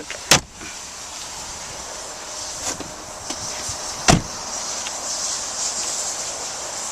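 Two sharp knocks about four seconds apart, the first just after the start, over a steady hiss.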